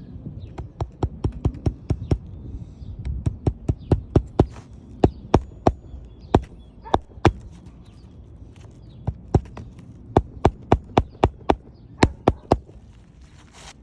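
Hammer driving roofing nails into asphalt shingles: runs of quick, sharp strikes, several to a run, with short pauses between runs.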